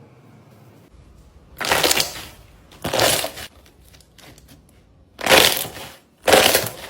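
Slime being pressed so its trapped air bubbles pop in crackling bursts, four of them, each under a second long.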